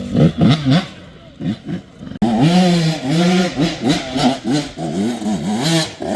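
Off-road motor engine revving hard and unevenly, its pitch rising and falling with repeated throttle blips, as on a hill climb. The sound jumps abruptly about two seconds in and runs on steadily revving after that.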